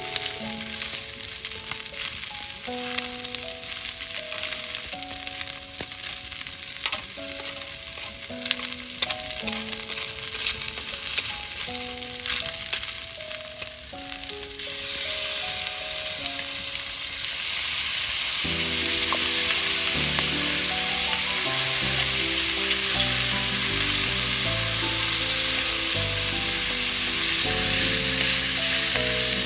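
Food sizzling and crackling as it fries in a pan, the sizzle growing much louder about halfway through. Background music plays over it.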